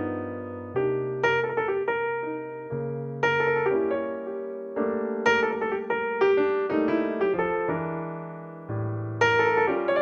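Piano music: chords and melody notes struck and left to ring, fading after each one.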